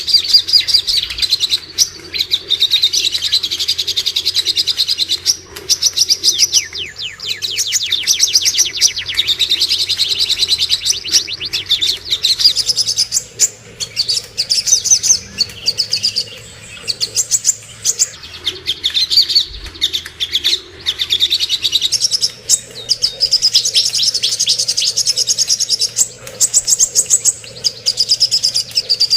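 Cucak kombo songbird singing continuously in fast, ringing trills and chirps with only brief pauses, over a faint low hum. This is a masteran recording used to coax silent caged birds into song.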